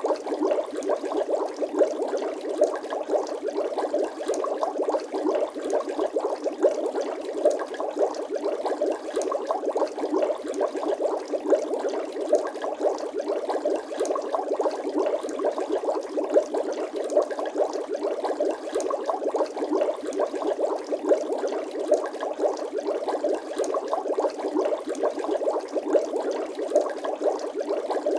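Bubbling water sound effect: a steady, dense run of small, quick bubble pops.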